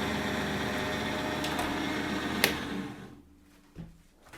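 Parkside bench pillar drill's electric motor running steadily with a wobbling, off-centre bit in the chuck, then a click at about two and a half seconds as it is switched off and the motor spins down to a stop. A couple of small knocks follow near the end.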